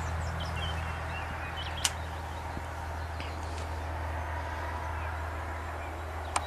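Small birds chirping briefly over a steady low hum, with two sharp clicks, one about two seconds in and one near the end.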